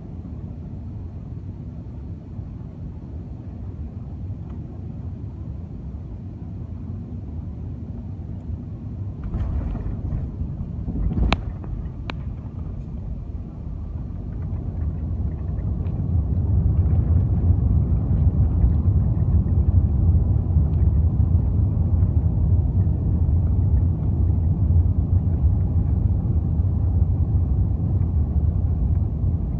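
Airliner cabin during landing: a steady low rumble, a sharp thud about a third of the way in as the wheels touch down, then the rumble grows much louder about halfway through and stays loud through the rollout on the runway.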